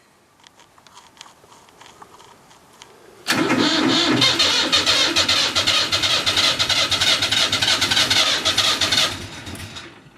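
Diesel tractor engine cranked over on its starter motor in a cold start, a loud, even churning that begins suddenly about three seconds in, runs for about six seconds and dies away without the engine catching. The owner suspects water in the fuel.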